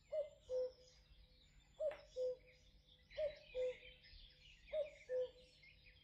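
A bird repeating a low two-note call four times, about every second and a half, the second note lower than the first. Smaller birds chirp faintly in the background.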